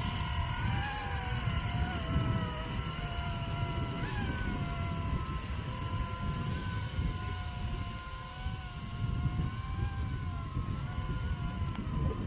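Electric Blade 230 S RC helicopter in flight: the whine of its motor and spinning rotors wavers up and down in pitch as the throttle and load change, over a low rumble of wind on the microphone.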